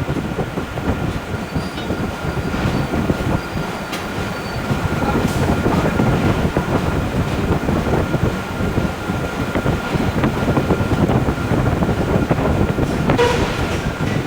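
Heavy forge-shop machinery running with a steady loud rumble and a faint high whine, broken by a few single knocks about five seconds in and near the end.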